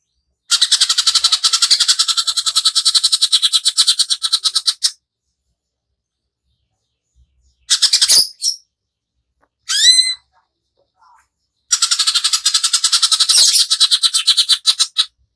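Greater green leafbird (cucak ijo) singing hard in long, harsh, very fast rattling trills, two runs of about four seconds each. Between them come a short call and a quick series of rising whistled notes.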